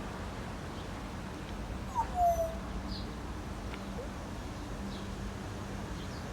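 A single short animal call about two seconds in: a high squeak that slides down in pitch, over a low steady hum.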